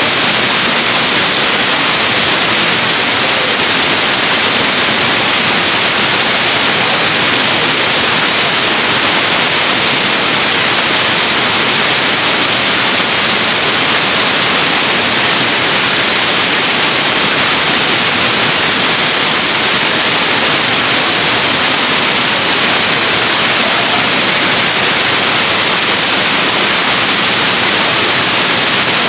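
Waterfall: falling water making a loud, steady hissing rush that does not change.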